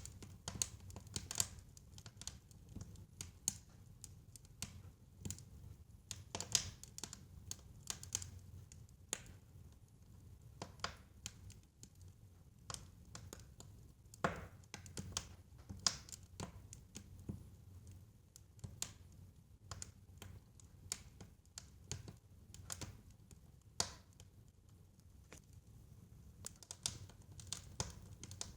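Fireplace fire crackling: irregular snaps and pops, a few louder than the rest, over a low steady rumble of the flames.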